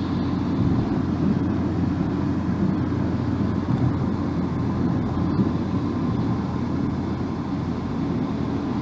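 Steady low rumble of a car driving, heard from inside the cabin: tyre and road noise with the engine underneath, holding an even level.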